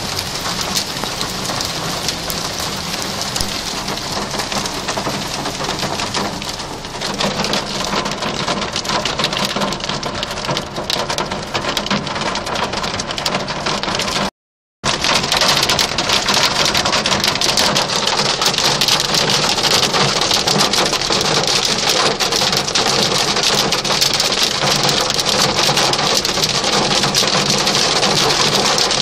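Heavy rain falling on a car, heard from inside the car as a dense, steady patter of drops. It cuts out for a moment about halfway through, then comes back louder.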